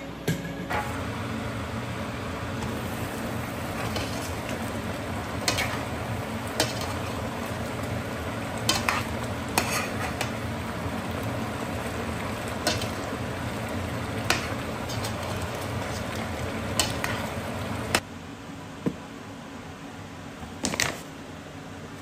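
Food sizzling in a pot while a utensil stirs it, clicking against the pot now and then. The sizzling drops off suddenly about 18 seconds in, leaving a quieter steady hiss and a few more clicks.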